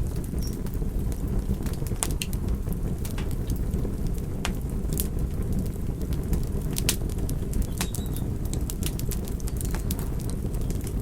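Wood fire burning, with a steady low rushing noise and frequent sharp, irregular crackles and pops.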